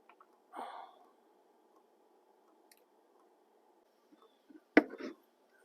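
A short soft rustle about half a second in, then a sharp knock near the end, the loudest sound, followed closely by a lighter knock, over a faint steady hum.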